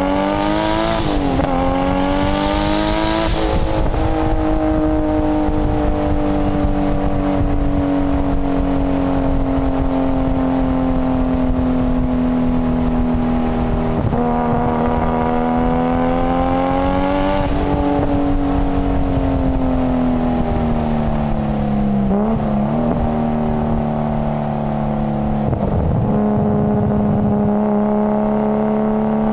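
Nissan Skyline GT-R (R33) RB26 twin-turbo straight-six running under way. The engine note climbs at the start, eases slowly down, climbs again about halfway through, drops with a few brief breaks, and holds a steady pitch near the end.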